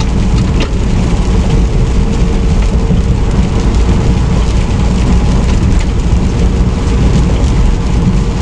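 Semi truck on the move in the rain, heard from inside the cab: a steady low drone of engine and road noise with rain hissing over it and a few scattered ticks.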